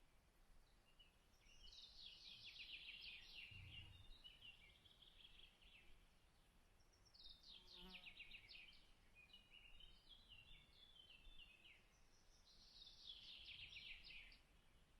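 A songbird singing faintly, the same phrase three times about five seconds apart: each phrase is a quick run of notes falling in pitch, followed by a short jumble of notes.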